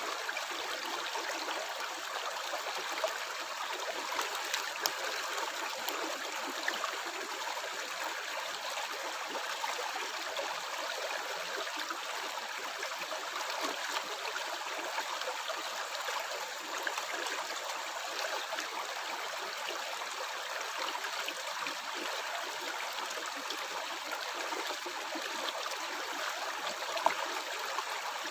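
A stream of water flowing and gurgling steadily, with a few brief, sharper splashes.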